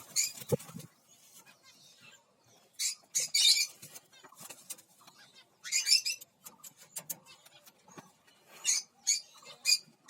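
Caged small parrots of a lovebird and cockatiel aviary calling in short shrill chirps, in bursts about three, six and nine seconds in, with quiet gaps between.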